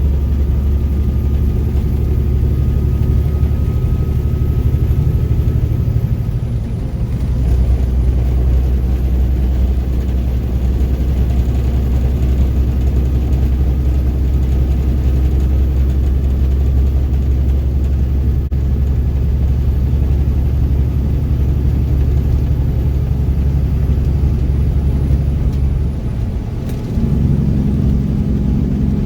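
Mack truck's diesel engine running under way. The engine note dips and shifts about six seconds in, and steps up near the end.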